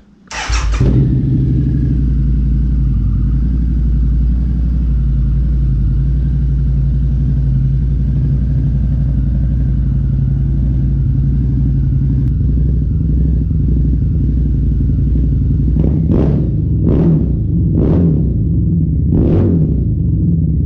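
Harley-Davidson V-Rod Muscle's liquid-cooled Revolution V-twin, breathing through Vance & Hines Competition slip-on mufflers. It fires up about half a second in and idles steadily, then four quick throttle blips come near the end.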